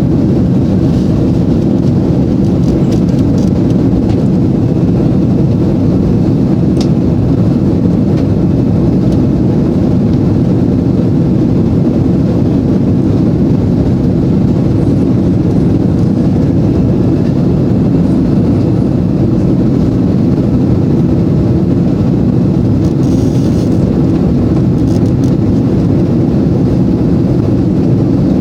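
Airbus A330 jet engines at takeoff thrust: a loud, steady deep rumble.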